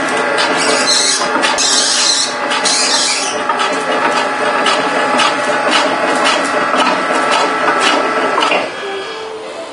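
Nantsune NYL-160S multi-slicer running on a salmon slicing test: a steady machine whir with repeated clicks and a hiss about a second in. It stops near the end.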